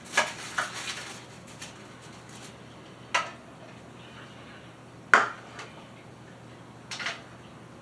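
Kitchenware clinking and knocking, as dishes or utensils are handled and set down: a handful of separate sharp knocks a second or more apart, the loudest about five seconds in.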